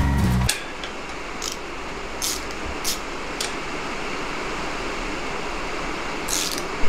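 Steady hiss of rain on the garage roof, with about six short scrapes of metal handlebar parts being worked by hand.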